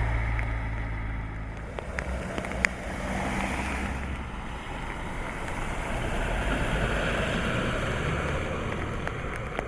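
Steady rushing noise of wind and water, with a low engine hum fading away over the first few seconds.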